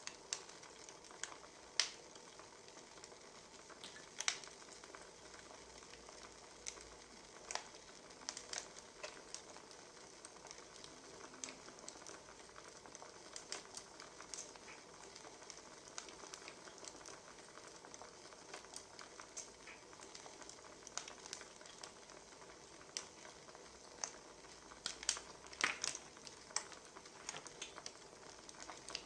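Wood fire crackling: a soft steady hiss with irregular sharp pops, several in quick succession near the end.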